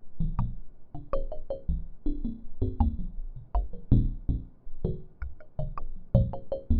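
Randomly generated synthesizer music: a fast, irregular run of short keyboard-like notes, each struck sharply and dying away quickly. Low tones are mixed with bright high pings.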